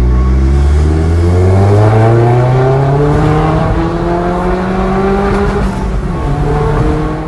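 2011 Alfa Romeo Giulietta QV's 1750 TBi turbocharged four-cylinder, with catless downpipe and resonator-deleted exhaust, accelerating hard, heard from inside the cabin. The engine note rises in pitch, then breaks briefly about six seconds in as a gear is changed and carries on steady.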